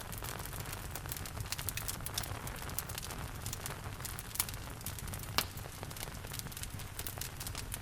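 Wood fire crackling with frequent small snaps and a sharper pop about five and a half seconds in, over a steady hiss of rain and a low rumble.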